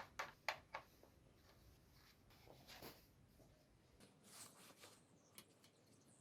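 Near silence with a few faint, sharp clicks and taps, a quick cluster in the first second and a few scattered later: light handling of small parts and tools.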